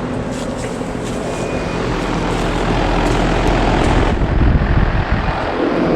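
Residential 3-ton heat pump outdoor units running: a steady compressor hum under the rush of air from the condenser fans, getting somewhat louder partway through.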